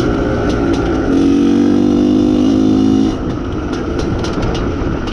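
IZh Planeta Sport's single-cylinder two-stroke engine running under way, getting louder about a second in and dropping back a little after three seconds, as the throttle is opened and then eased. The engine is being run in.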